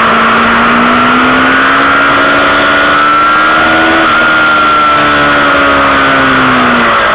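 Motorcycle engine heard on board at track speed. Its pitch climbs for about four seconds, then eases slowly down and drops near the end, under a loud rush of wind noise.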